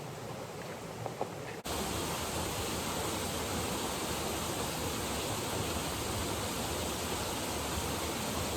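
Steady rush of falling water, which jumps louder at a sudden cut about a second and a half in and then holds even.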